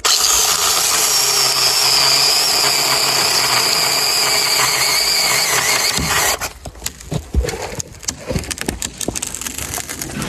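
Velotrex 8-inch mini cordless chainsaw cutting into a dead red oak trunk with a steady high whine for about six seconds, then stopping. Irregular snaps and crackles follow.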